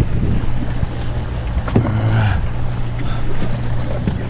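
Sportfishing boat's engine running with a steady low hum, under wind and water noise.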